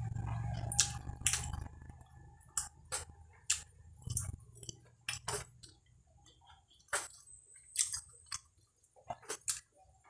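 Close-up chewing of fried cempedak skin: irregular sharp crunches, about one or two a second. A low hum underlies the first couple of seconds, then stops.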